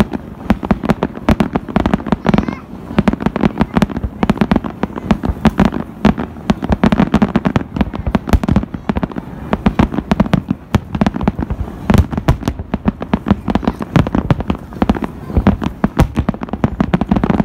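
Fireworks display: aerial shells bursting in a rapid, unbroken run of bangs and crackles, several a second.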